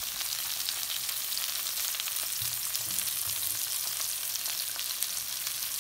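Green beans frying in vegetable oil in a pan, a steady sizzling hiss with fine crackling, and a few soft stirring knocks about halfway through.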